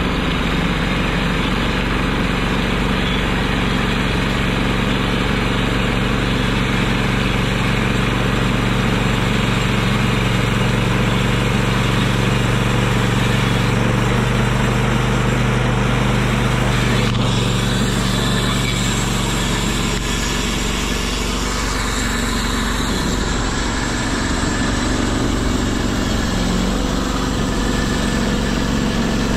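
The gas engine of a Norwood HD36 portable bandsaw mill runs steadily while the band blade cuts an oak log. The sound shifts about 17 seconds in.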